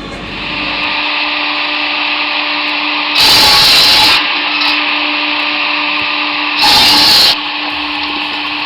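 A powered saw running steadily on a firewood machine, with two louder, harsher stretches about three seconds and about seven seconds in, each lasting about a second, as it cuts through logs.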